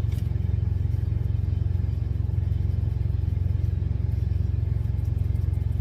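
Engine idling steadily with an even low rumble.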